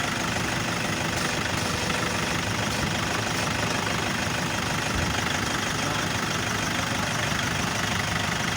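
Toyota Innova engine idling steadily during a power-steering check with the wheel turned toward full lock. This is the test for a squeak in the steering that the mechanic puts down to weak, low-viscosity ATF in the power steering system.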